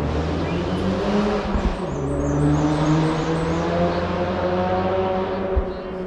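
Race car engine running hard up a hillclimb course, dropping in pitch at an upshift about two seconds in and then climbing again, fading near the end as the car moves away.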